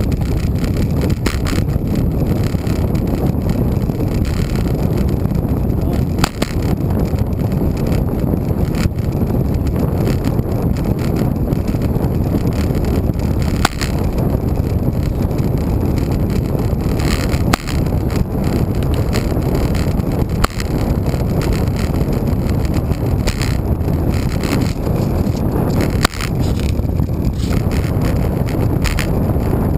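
Steady low rushing of wind and road noise on the camera's microphone while riding a road bike, broken by a handful of sharp clicks or knocks.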